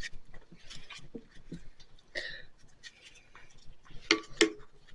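Quiet handling noises: scattered small clicks and rustles, with two sharp clicks a little after four seconds in.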